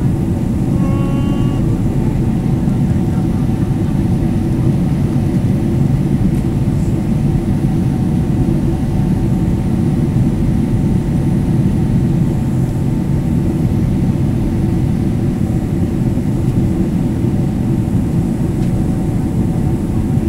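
Steady engine and airflow noise inside the cabin of a Boeing 767-300ER: a heavy low rumble with a few steady hums above it. A short pitched sound with overtones comes about a second in.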